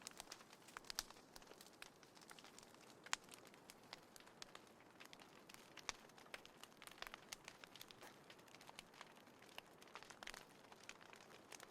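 Small wood fire crackling in a folding fire pit: faint, irregular snaps and pops over a soft hiss, with one sharper pop about three seconds in.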